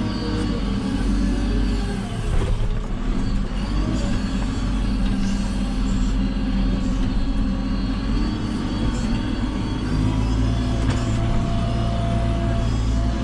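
Diesel engine of a JCB 3CX backhoe loader running steadily under working load, its pitch dipping and rising slightly a few times in the first seconds as the hydraulics take and release load.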